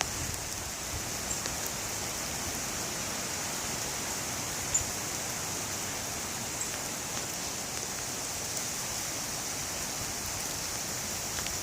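Steady hiss of a windstorm with rain, a few light ticks scattered through it and one sharper tick about five seconds in.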